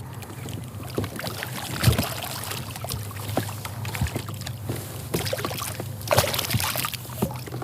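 Water splashing and lapping against a kayak, with scattered knocks and clicks of gear on the hull.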